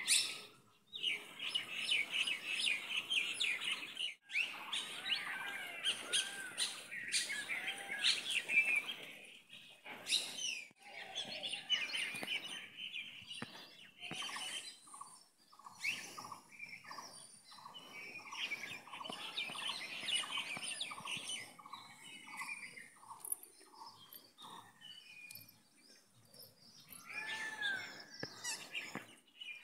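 Several birds chirping and calling, with a run of short repeated notes, about two a second, in the middle.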